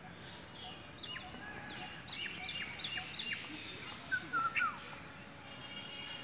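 Small birds chirping: a run of quick, short, high chirps that drop sharply in pitch, with a louder cluster of lower notes about four seconds in.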